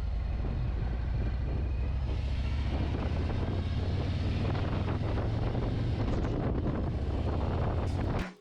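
Harley-Davidson motorcycle engine running steadily while riding, with wind noise on the microphone; it cuts off suddenly at the end.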